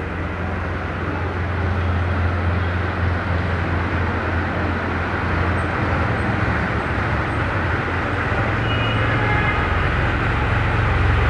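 Tractor engine running at a steady speed, a constant low hum that grows a little louder over the first two seconds.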